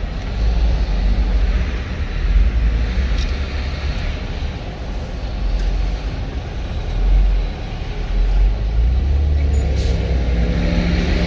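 Highway traffic and road noise from a moving vehicle, a steady low rumble, with an engine's pitch rising near the end.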